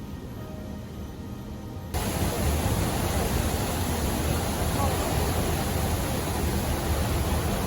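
A steady, loud rushing noise that starts abruptly about two seconds in, heaviest in the low end.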